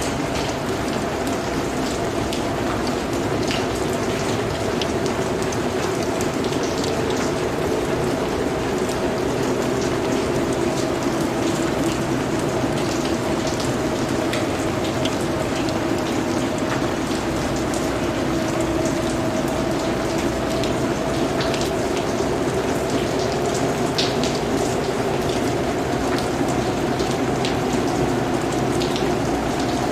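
Steady rain on foliage and surfaces, a dense hiss with many small individual drop ticks, over a steady low hum.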